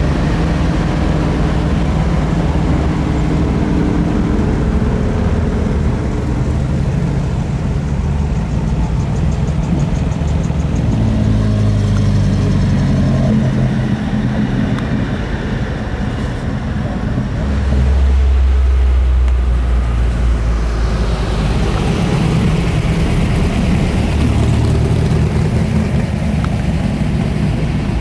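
Car engines running at low speed, one after another, as cars move past; a deep engine note is loudest about two-thirds of the way through.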